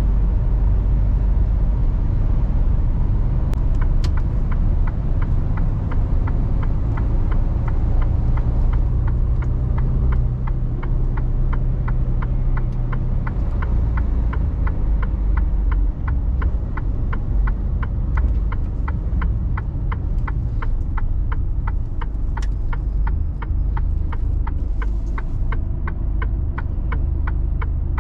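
Mercedes Actros truck's diesel engine running steadily, heard from inside the cab. From about four seconds in, a turn-signal indicator ticks evenly, about one and a half clicks a second.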